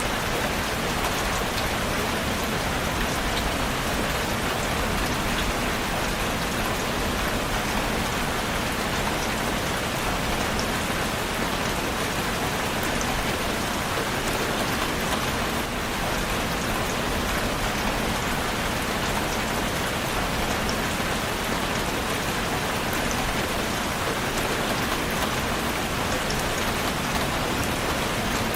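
Steady rain falling, with fine drop taps on a surface and no change in intensity.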